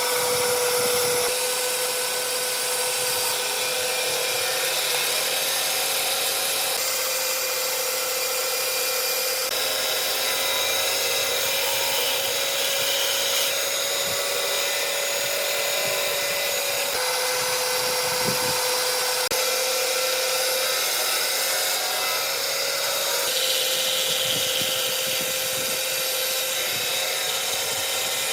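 Electric power tool running steadily on wood, with a steady motor whine and a hissing working noise. The sound shifts abruptly every few seconds where separate stretches of the work are joined.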